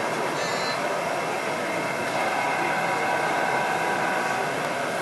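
Model train running on an exhibition layout: a steady motor whine of several tones that comes in a little louder about two seconds in, over the even hum of a busy hall.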